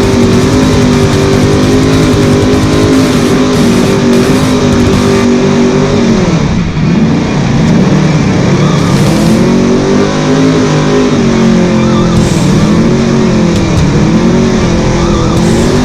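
Trophy truck engine running hard at high revs, its pitch falling and climbing again as the throttle is lifted and reapplied: a deep dip about six or seven seconds in, then several shorter ones toward the end.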